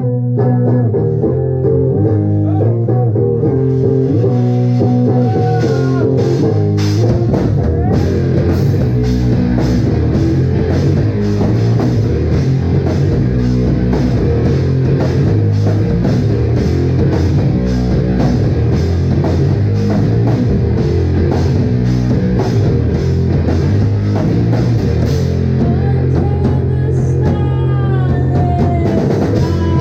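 Live rock band playing: electric guitar and bass with a drum kit, loud and full. Guitar and bass carry the opening, the drums fill in over the first several seconds, and sliding pitched notes come near the end.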